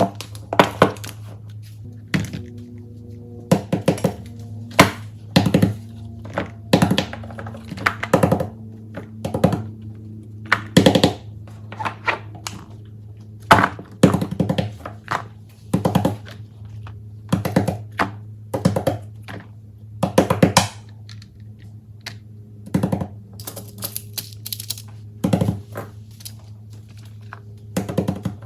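Fidget toys being handled and set down, with clusters of sharp clicks and knocks every second or so, over soft steady background music.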